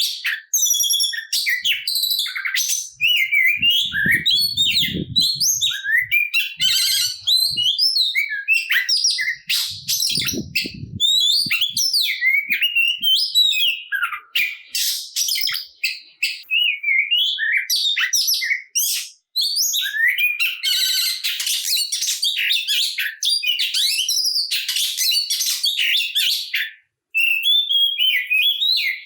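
Oriental magpie-robin (kacer) singing without a break: a rapid, varied stream of whistles, chirps and trills, rich in mimicked song phrases ('full isian').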